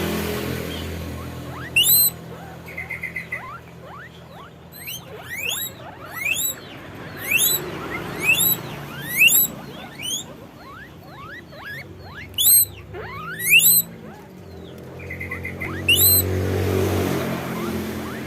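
Guinea pigs wheeking: repeated high squeals that sweep upward in pitch, one every second or two, with two short rapid chirping trills among them, over a low steady hum.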